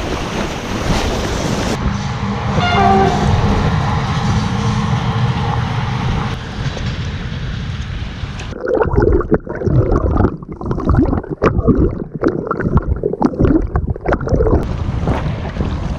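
A passenger train running along the riverbank with a steady hum, its horn sounding briefly about three seconds in, over the rush of fast river water and wind on the microphone. From about halfway the sound turns muffled and choppy, with splashing, as the camera dips to the water surface.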